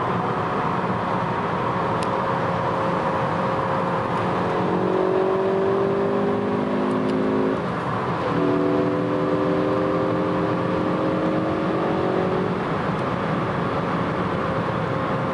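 Ford Focus ST Mk3's engine pulling under acceleration, heard from inside the cabin over steady tyre and road noise. The engine note climbs slowly, breaks off briefly about eight seconds in, then climbs again.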